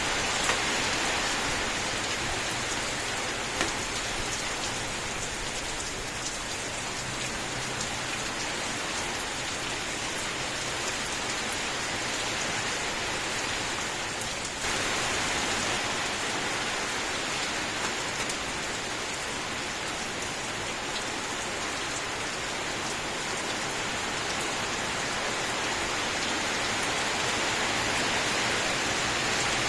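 Rain falling steadily: an even hiss of rain with scattered sharper drop ticks. About halfway through it dips briefly and comes back slightly louder.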